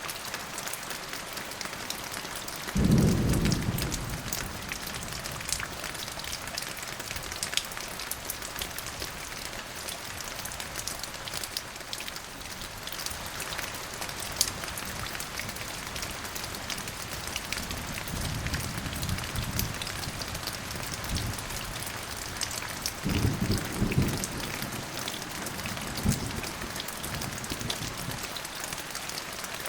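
Steady rain pattering, with thunder rumbling: a loud low roll about three seconds in, then softer rumbles in the second half.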